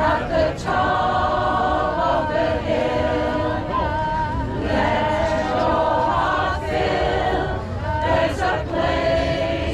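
A choir singing, holding long notes that change every second or two. A steady low rumble runs underneath.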